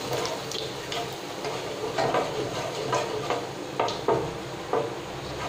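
Cumin seeds sizzling in hot oil in a kadhai while a spatula stirs them, scraping and knocking against the pan about once or twice a second.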